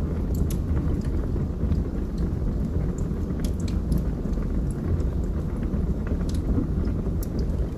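Log fire burning in a fireplace: sharp wood crackles and pops, irregularly spaced, over a steady low rumble of the flames.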